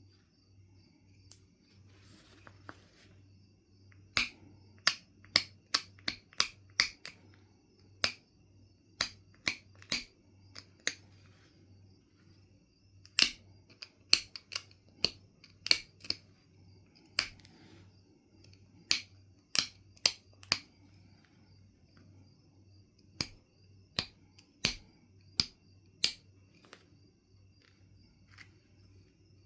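Knife River flint being knapped: sharp, irregular clicks and snaps as flakes come off the stone, some coming in quick runs of several a second, with pauses of a few seconds between runs.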